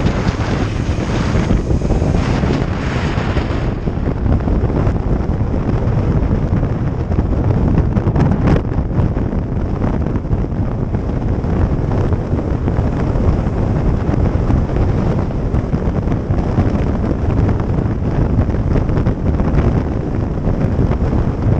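Wind blowing over the microphone of a camera on a moving motorcycle: a steady, loud rush of noise with the bike's engine and road noise underneath. It is hissier for the first four seconds or so.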